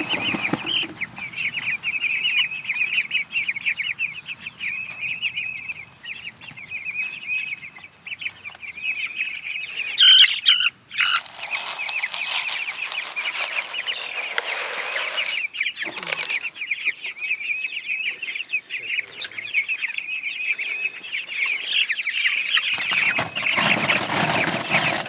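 A flock of young meat chickens peeping and cheeping continuously in quick, high calls. About ten seconds in there is a sharp, louder sound, followed by a few seconds of rushing, rustling noise, and another stretch of it near the end.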